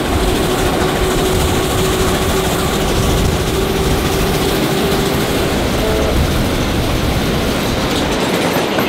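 Two trains running side by side at speed, a Tait electric suburban train and the K-class steam locomotive K100, heard from a window of the Tait carriage. There is a loud, steady rumble of wheels on rail, and a steady hum that stops about halfway through.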